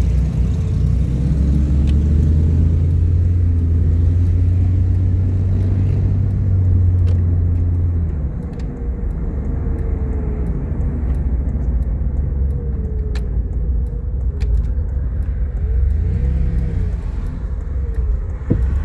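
Vehicle engine and road rumble heard from inside the cab while driving, heavy and low for the first eight seconds, then easing to a steadier drone.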